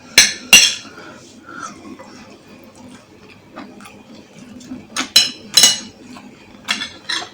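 Cutlery clinking against a bowl while eating: two sharp clinks just after the start, two more about five seconds in, and lighter taps near the end.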